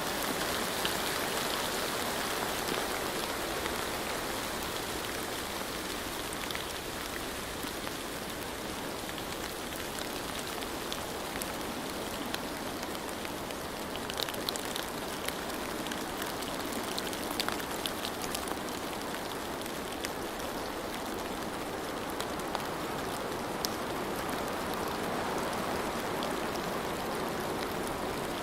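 Steady rain falling, an even hiss with scattered sharp drop hits landing on a surface.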